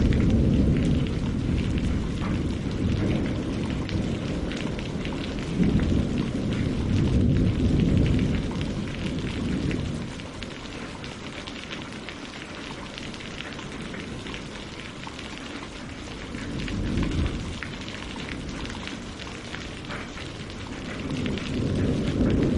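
Steady rain pattering on leaves and lake water, with many fine drop ticks. Under it a low rumble swells and fades several times: loudest at the start, around six to nine seconds in and near the end, with a quieter stretch in the middle.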